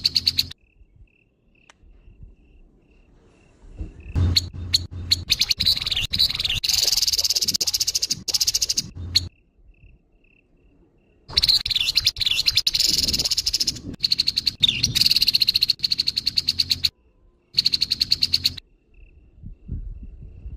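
Grey-headed babbler giving harsh, rapid rattling calls in three bursts, the first starting about four seconds in and the longest near the middle. In the pauses a faint short note repeats at an even pace.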